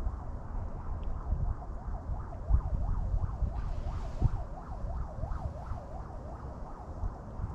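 Wind buffeting the microphone in gusts. From about two seconds in, a fainter wavering tone swings up and down about three times a second.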